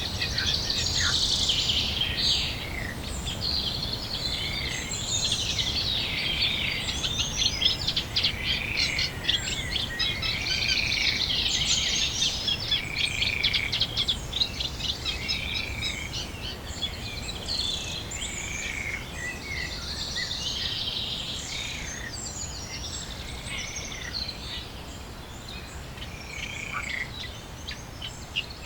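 Dense chorus of songbirds: many overlapping chirps, trills and warbles, with a repeated arched whistled note about once a second through the middle. The chorus thins out near the end.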